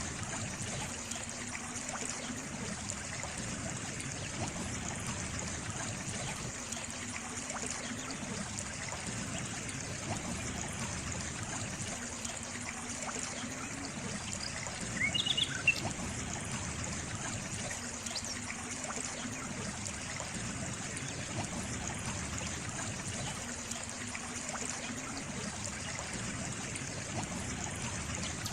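Steady trickling of a small stream. A short, high chirp is heard about halfway through.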